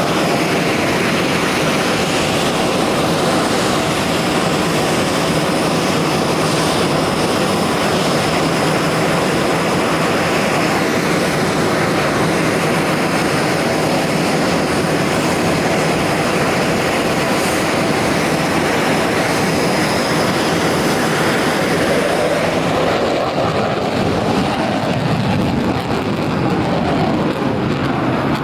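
F-22 Raptor's twin Pratt & Whitney F119 turbofan jet engines heard in flight: a loud, steady jet roar. The highest pitches fade away about 23 seconds in.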